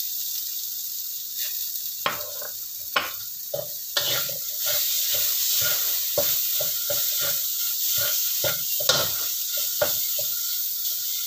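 Spice paste with lemongrass, lime leaves and ginger sizzling in hot oil in a wok, being sautéed until fragrant, while a metal spatula stirs and scrapes against the pan. The scrapes and taps come thick and fast from about two seconds in.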